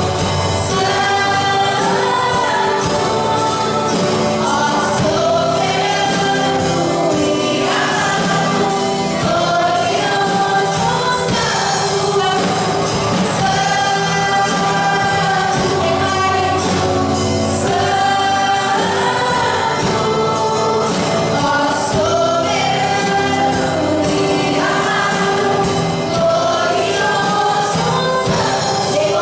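Church worship team singing a gospel praise song as a group, over instrumental accompaniment.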